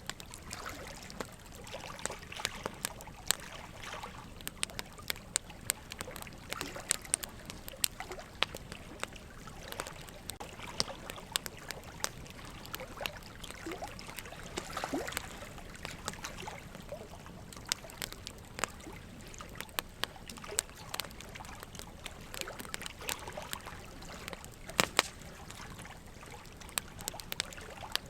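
Campfire burning: wood crackling and popping in irregular sharp snaps over a soft steady hiss, with one louder pop near the end.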